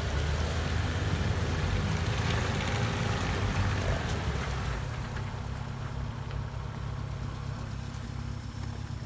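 Off-road 4x4 engine running steadily, louder with extra noise for the first half, then easing to a lower, quieter run about five seconds in.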